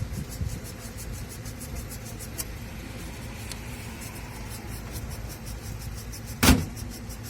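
A vehicle engine running steadily with a regular light ticking, and one loud sharp knock about six and a half seconds in.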